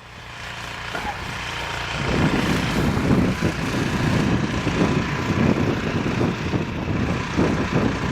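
Snow blower engine running, growing louder over the first two seconds, then a steady drone.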